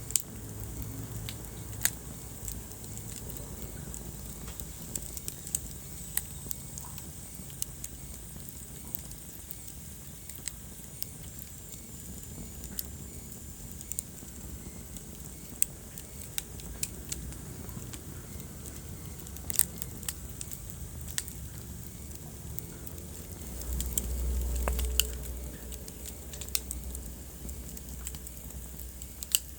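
Wood fire burning in a fireplace: scattered sharp crackles and pops over a steady low rumble of flames. About 24 seconds in, the low rumble swells louder for a couple of seconds.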